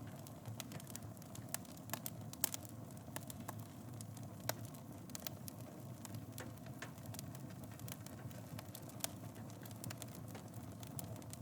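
Wood fire burning in a fireplace: a steady low rush of flames with irregular sharp crackles and pops, a few louder ones.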